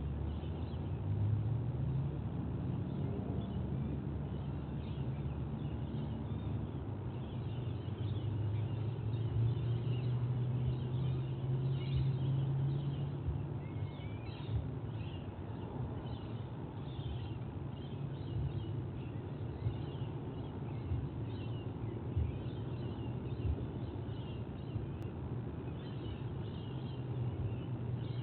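Many brief, high bird chirps repeating throughout, over a steady low rumble.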